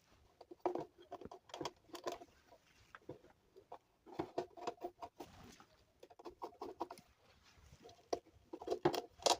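Irregular clusters of light clicks and knocks from plastic parts of a speaker amplifier being handled and fitted back together, in four short bursts.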